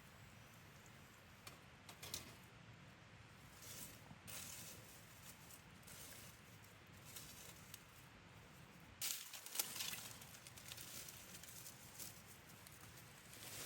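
Faint small clicks and rustling handling sounds over a soft steady hiss, with a louder spell of rustling about nine seconds in.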